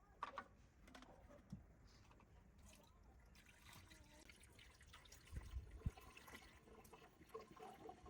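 Near silence with a few faint clicks and knocks, and a brief low thump about five and a half seconds in.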